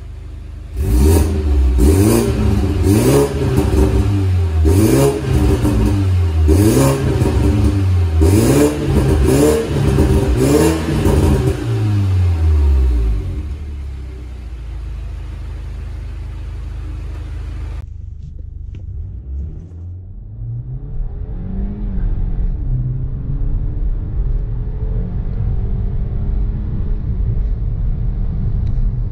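BMW 120i's B48 2.0-litre turbocharged four-cylinder, fitted with a 200-cell downpipe on the stock cat-back exhaust, free-revs sharply about six times from the tailpipes, then settles to idle. After a break a little over halfway through, the engine is heard from inside the cabin accelerating hard, its pitch climbing steadily.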